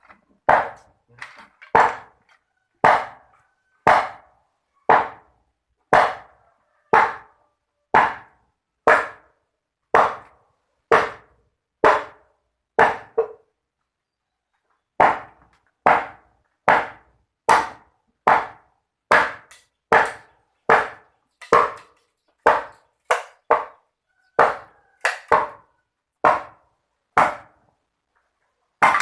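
Repeated sharp chopping strikes, about one a second, each ringing out briefly, with a pause of about two seconds midway.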